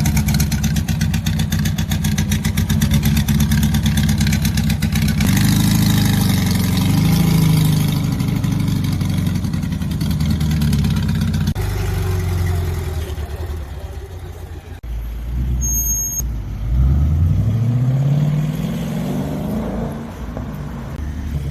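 High-performance car engines and exhausts. First a steady, fast-pulsing engine note, then revving with the pitch rising and falling. Later a rising note as a car accelerates.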